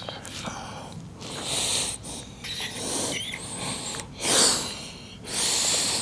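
A man breathing hard and forcefully through the strain of a set of dumbbell shoulder presses, about four loud, noisy breaths spaced a second or so apart.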